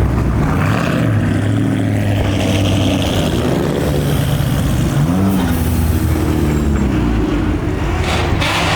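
Car engine running steadily, rising and falling in pitch about halfway through as it pulls away, with another rise near the end.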